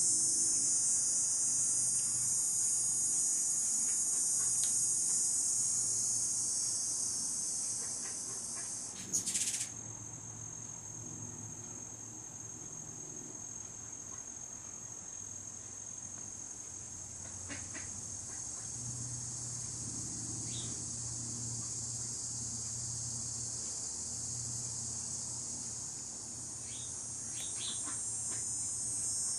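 A steady, high-pitched insect chorus, such as crickets or cicadas, buzzing continuously. It eases off about a third of the way in and builds again toward the end. A few short bird chirps come in over it.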